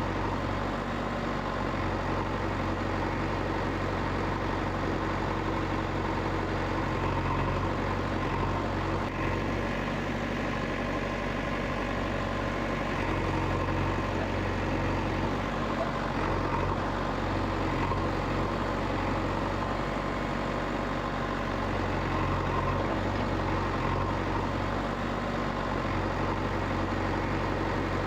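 An engine idling steadily, a low even hum that keeps the same pace throughout.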